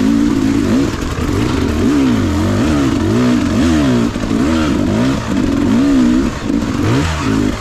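Beta 300RR two-stroke dirt bike engine revving up and down over and over, its pitch rising and falling about every half second as the throttle is opened and closed.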